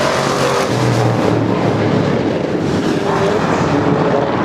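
Ford 428 stroker V8 in a 1956 Thunderbird running steadily and loudly, its pitch shifting a little.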